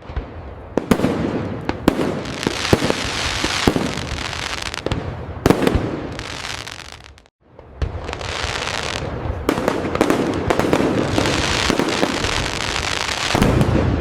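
Fireworks going off continuously: a dense crackle of many small bursts with sharp pops throughout, one of the loudest about five and a half seconds in. It drops out briefly about seven seconds in, then resumes.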